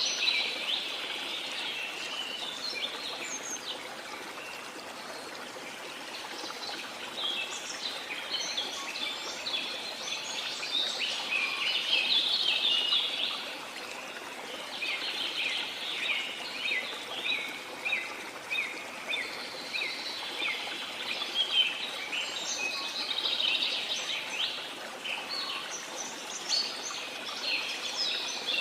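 Many small birds chirping busily in overlapping clusters of short, high notes, over a steady rush of sea water.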